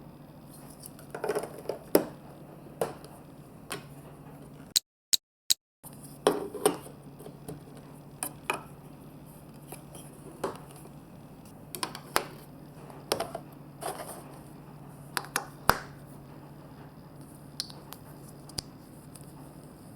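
Marbles rolling and clattering down a plastic building-block marble run: irregular clicks and knocks, some sharp and loud, over a steady low hum. The sound drops out completely for about a second around five seconds in.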